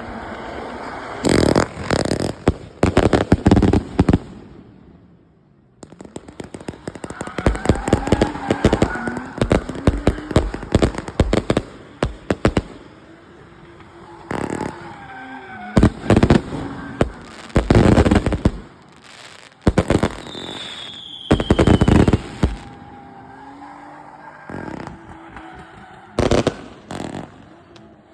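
A 500-shot consumer fireworks cake firing: rapid shots and crackle come in loud clusters with short lulls between, and a brief falling whistle about twenty seconds in.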